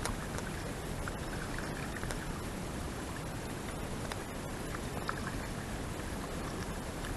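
Small cabin cruiser under way: the steady run of its engine mixed with water noise, with a few faint light clicks.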